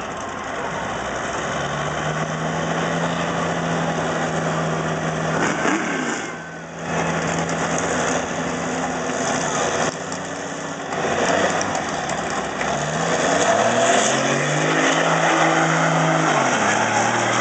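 Big-rig diesel truck engine running under load with a steady drone. In the last few seconds its pitch climbs and drops back several times in steps, as the truck accelerates through its gears.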